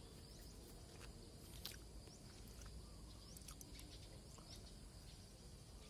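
Near silence: faint background with scattered short, high chirps from small birds.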